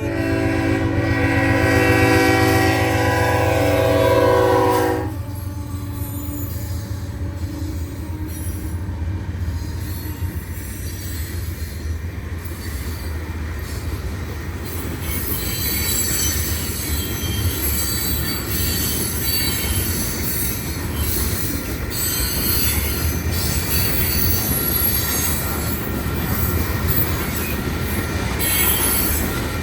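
BNSF freight train's locomotive air horn sounding a long chord that cuts off about five seconds in, followed by the train rolling through the crossing with a steady rumble of wheels on rail. From about halfway, the freight cars' wheels squeal high-pitched against the rails.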